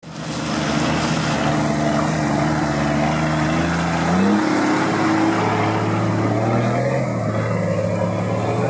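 Off-road vehicle engine running hard under load, its pitch climbing slowly and then rising sharply about four seconds in as the revs go up.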